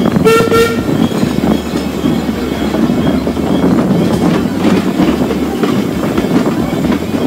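Narrow-gauge railway train running along the track, heard from an open carriage, a steady rumble with occasional clacks. About a quarter second in, the locomotive gives one short toot.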